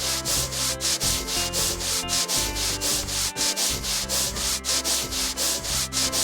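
Rapid rhythmic rubbing or scrubbing sound effect, about five strokes a second, like a brush or sanding pad worked back and forth over a surface, over background music.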